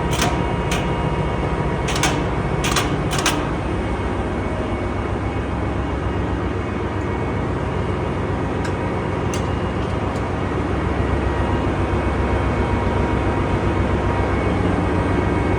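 Steady drone of a ship's engine-room machinery, with the diesel generators running. A few sharp metallic clicks come in the first three seconds and two fainter ones near the middle.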